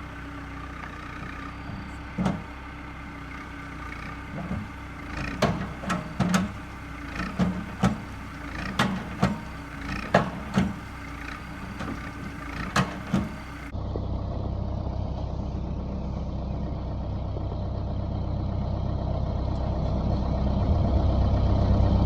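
Heavy-equipment engine running, with a string of sharp knocks and bangs over it for the first half. After an abrupt change in the sound about two-thirds of the way in, a steady, low engine grows louder toward the end.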